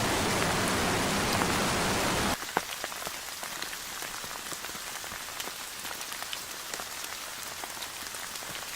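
Recorded rain: a dense, heavy downpour that cuts off abruptly about two seconds in, giving way to lighter rain with individual drops ticking clearly.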